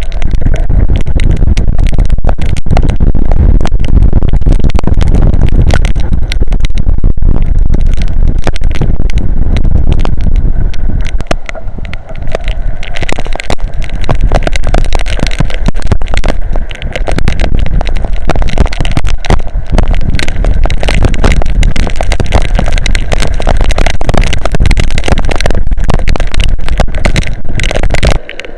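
Strong wind blowing hard across the microphone in a heavy rainstorm, with a dense patter of raindrops. It is loud and constant, easing briefly twice.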